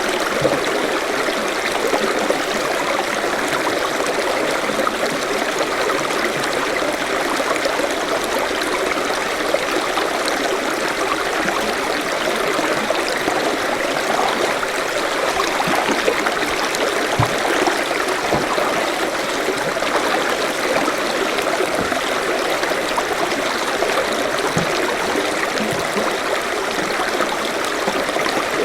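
Forest stream flowing over rocks: a steady babble and trickle of running water, with small splashes here and there.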